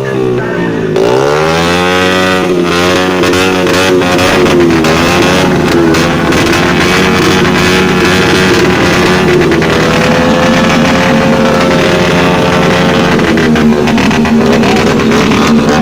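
Motorcycle engine revving hard: the pitch climbs steeply about a second in, then is held high with small rises and falls.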